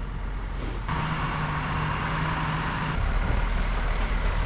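Old MAN truck running on the road: a steady low engine drone, with a hiss lasting about two seconds from about a second in.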